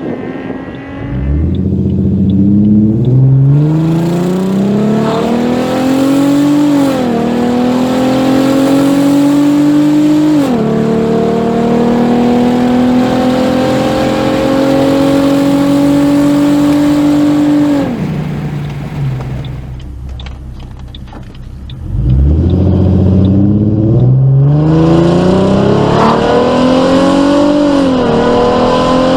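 Forced-induction Ford Mustang 4.0 V6 accelerating hard through the gears, its engine note climbing and dropping back at each upshift. It lifts off and falls quieter, then pulls up through the gears again near the end.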